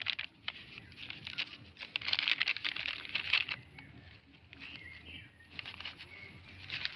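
Close rustling and crackling in uneven bursts, busiest between about two and three and a half seconds in, as plastic litter is pulled from the grass and handled.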